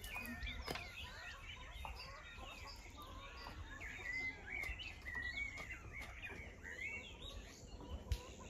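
Many small birds chirping and twittering together, a dense run of short chirps, heard faintly, with a couple of brief knocks near the start and near the end.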